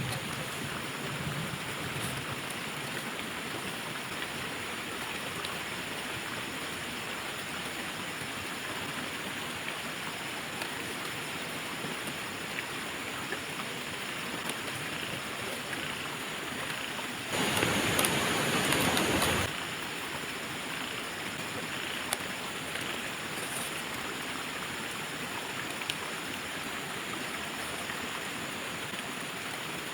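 Steady rushing noise, like a flowing stream. About two thirds of the way in, a louder rushing noise lasts about two seconds, then drops back.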